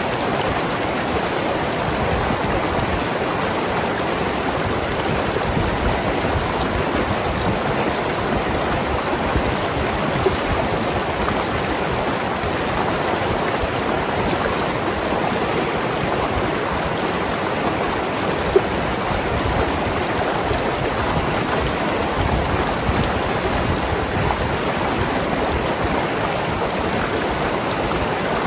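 Mountain river flowing and gurgling over rocks, a steady rushing of water.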